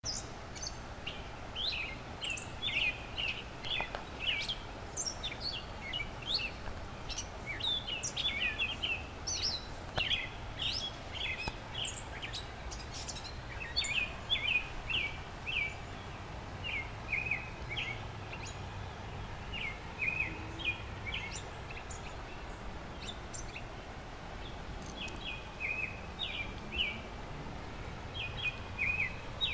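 Birdsong-like chirping and tweeting made by a person imitating birds: many short, quick chirps in irregular runs over steady background noise.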